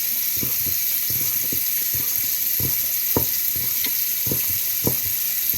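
Kitchen knife slicing mitre squid on a cutting board: a series of soft, dull knocks about twice a second at an uneven pace, over a steady hiss.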